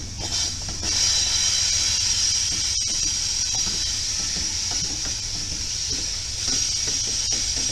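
BNSF diesel freight locomotives rolling past close by: a steady high hiss over a low rumble. It grows louder about a second in and eases briefly about six seconds in.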